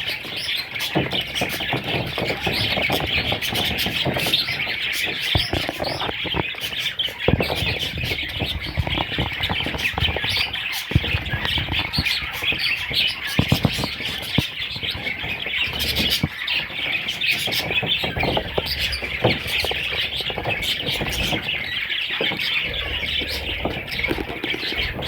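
Budgerigars chattering and chirping continuously, many overlapping high chirps and squawks at once, with scattered sharp clicks and taps.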